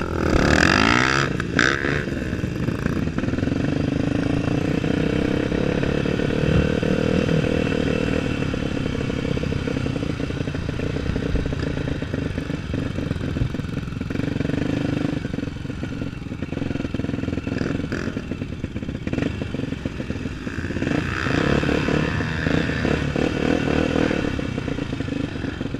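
Single-cylinder four-stroke dirt bike engine running under throttle, its pitch sweeping up and down near the start, with short knocks and rattles throughout. It gets louder again about twenty seconds in.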